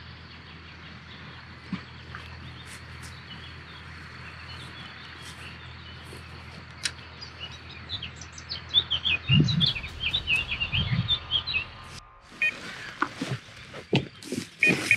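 Small songbirds chirping and calling in quick short notes, thickest past the middle, over a steady low outdoor rumble; a few dull thumps come about two-thirds of the way through.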